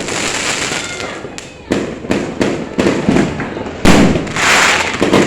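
Aerial fireworks exploding, a string of sharp bangs about half a second apart with the loudest near the end, each followed by a rolling rumble.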